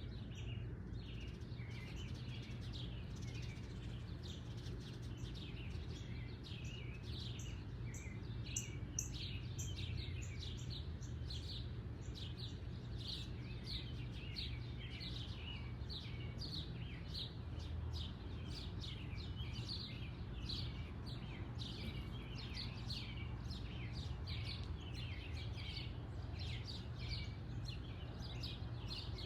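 Small birds chirping: short, high chirps repeated several times a second throughout, over a steady low hum.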